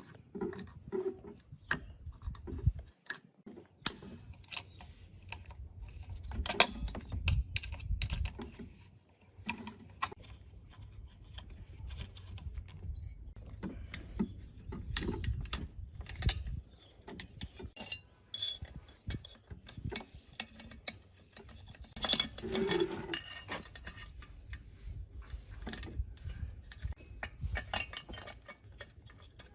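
Irregular clinks, knocks and scrapes of metal tools and parts being handled while a rusty machine is worked on by hand.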